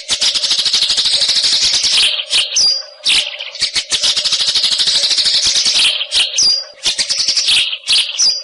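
A white-rumped shama (murai) singing: long trills of rapid, high chattering notes broken by short pauses, with a few brief downslurred whistles between them.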